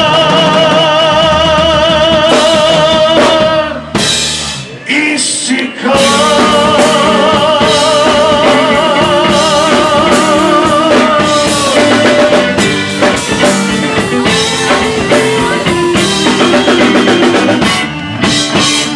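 Rock band playing the instrumental ending of a song: drum kit, guitar and a long held note with vibrato, a short break about four seconds in, then the full band again until it winds down near the end.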